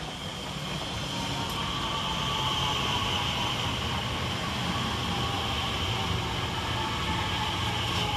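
Class 345 electric multiple unit running into the station and passing close by. Its sound builds over the first two or three seconds, then holds steady as the carriages go past.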